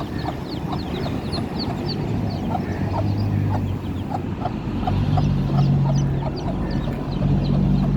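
Chicks peeping over and over in short, high, falling notes while a mother hen clucks. A steady low engine hum comes in about three seconds in and grows louder past the middle.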